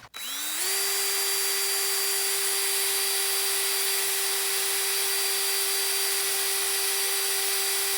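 Small high-speed electric power tool spinning up with a rising whine, then running at a steady high pitch while it cleans corrosion off an engine valve.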